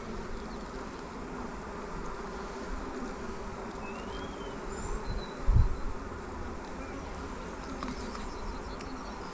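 Honeybees buzzing steadily around an opened hive, with one dull thump about five and a half seconds in.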